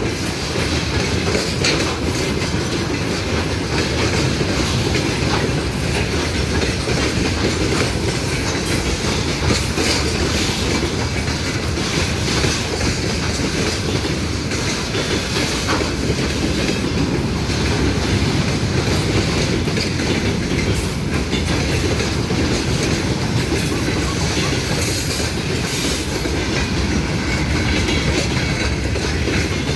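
Railway cars rolling past on the rails at a steady level, with the clickety-clack of wheels over rail joints.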